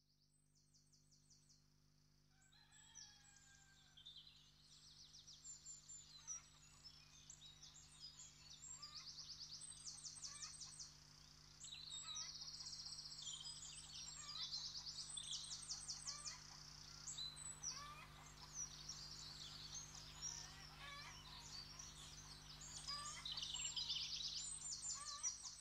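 Birds chirping in many short, high, rapid trills, busier after the first couple of seconds, over a faint steady low hum.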